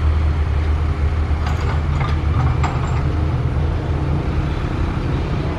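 SANY SY135F excavator's diesel engine running steadily, a deep even rumble, with a few faint clicks in the middle.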